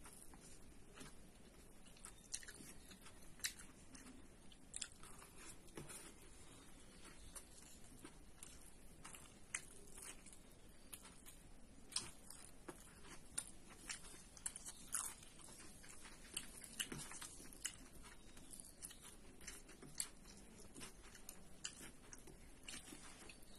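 A person chewing and biting food, with many irregular small crunches and clicks.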